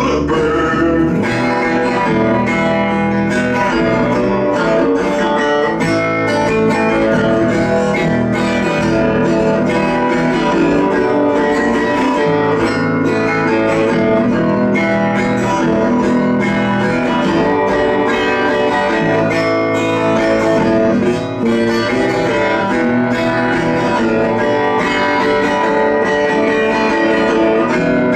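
Plucked string music: guitar-type picking over low bass notes, played without singing.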